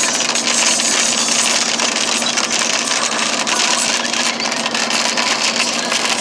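Hail falling hard: a dense, continuous clatter of countless small hailstones striking.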